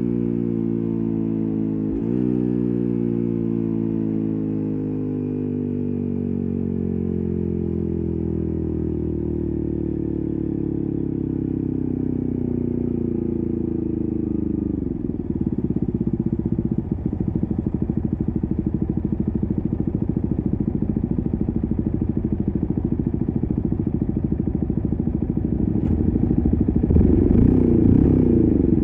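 Yamaha MT15's 155 cc single-cylinder engine through an SC Project full-system exhaust with silencer. The engine note falls steadily as the bike slows, settles abruptly into a low, evenly pulsing idle about halfway through, and picks up again near the end as the throttle opens.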